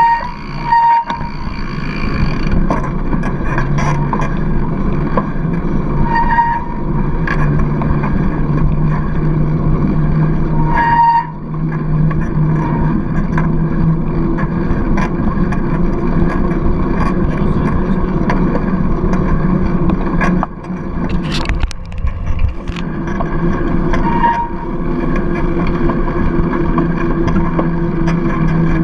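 Wind rushing over a GoPro action camera on a moving bicycle, mixed with tyre-on-road noise, with a few brief high squeaks.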